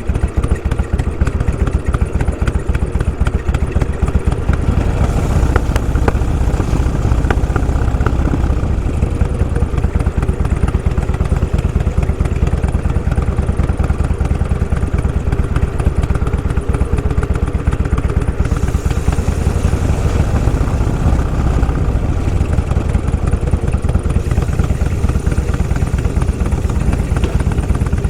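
Motorcycle engine running steadily under way, close to the microphone, its exhaust pulsing fast and even.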